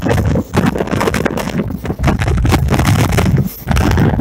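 Train running at speed, heard from inside the carriage: a loud, continuous rumble and clatter of the wheels on the track, with wind buffeting the microphone.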